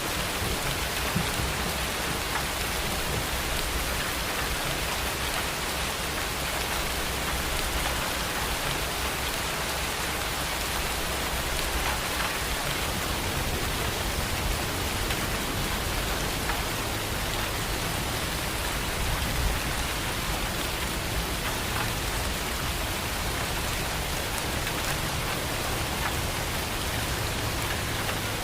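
Steady rain falling, an even, unbroken hiss with no thunderclap.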